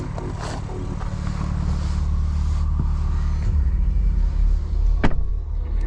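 BMW M3 G80's 3.0-litre twin-turbo straight-six (S58) running steadily at low revs, a low even hum, with a sharp click about five seconds in.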